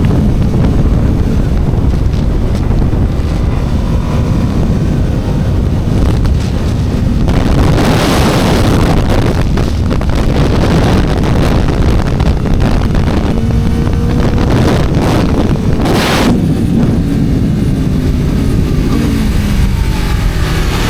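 Aprilia RSV4 superbike's V4 engine running at speed, heard over heavy wind noise on the microphone. Near the end the engine pitch falls as the bike slows.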